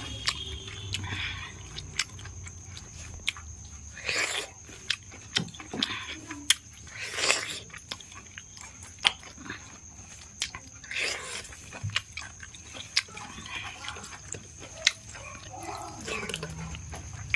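People eating mutton curry and rice: chewing and mouth sounds with many sharp little clicks, and a few louder noisy bursts about 4, 7 and 11 seconds in.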